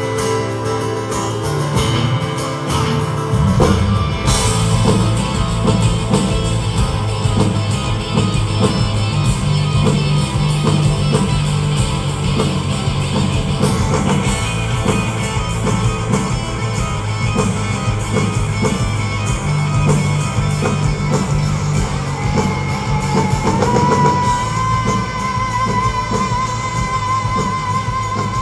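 Live rock band playing, with guitars, bass, drum kit and singing; the full band comes in about four seconds in. Near the end a long high note rises and is held with a wavering vibrato over the band.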